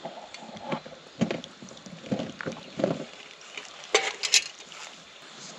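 A series of short knocks and clatters, like camp gear being handled, with two sharper, brighter clinks about four seconds in.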